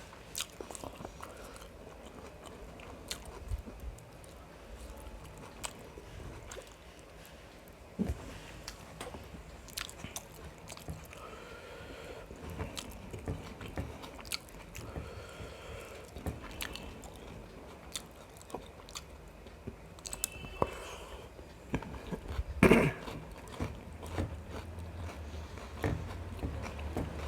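Close-miked chewing and biting of biryani with spicy mutton gravy: soft wet mouth sounds with scattered small clicks and crunches. One louder click stands out near the end.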